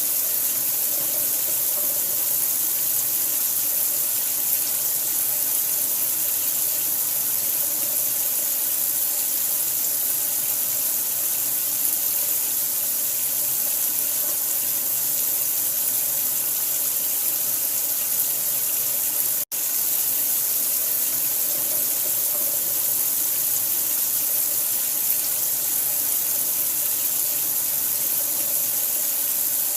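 Steady, continuous running water with a bright hiss. It cuts out for an instant about two-thirds of the way through, then carries on unchanged.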